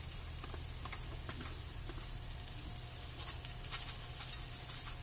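A pork chop sizzling in a frying pan, a steady hiss with scattered small crackles and pops of fat.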